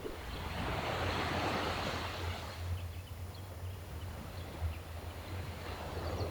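Gentle sea waves washing ashore: one wash swells and fades over the first two seconds or so, and another builds near the end, over a steady low rumble.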